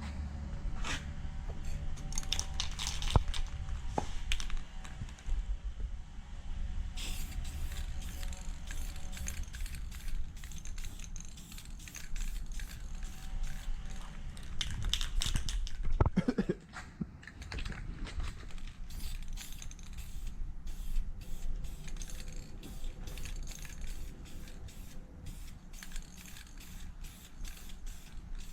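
Aerosol spray can spraying a coating onto headlight lenses in many short hissing bursts, one after another.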